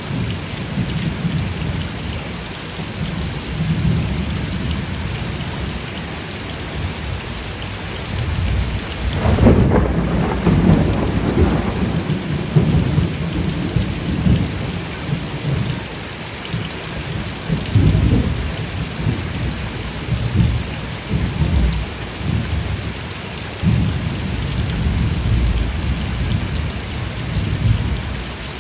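Steady rain pouring down with thunder rumbling again and again underneath it. The loudest roll of thunder comes about ten seconds in.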